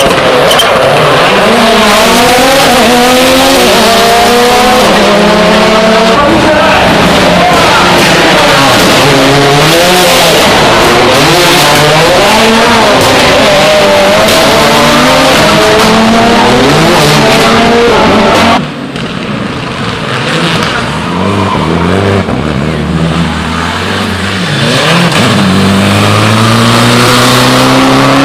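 Rally car engines driven hard, revving up through the gears again and again. About two-thirds of the way through the sound drops suddenly, and near the end another car's engine climbs as it comes on.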